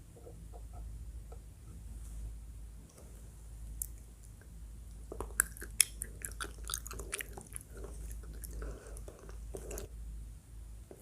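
Close-miked chewing of soft food, with wet smacking clicks that grow dense and loudest a little past halfway, then ease into softer chewing.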